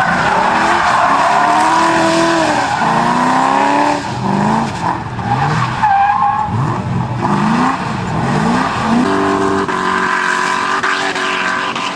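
A tuned car engine revving hard, its pitch sweeping up again and again. From about nine seconds in it holds a steadier note.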